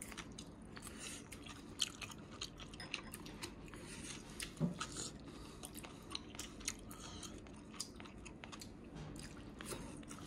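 Close chewing of crisp cucumber and garlic-chive salad (buchu oi-muchim), a run of small, irregular crunches and clicks.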